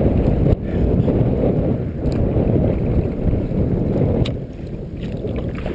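Strong wind buffeting the microphone, mixed with choppy waves washing against a small sit-in kayak's hull. A sharp knock comes about four seconds in.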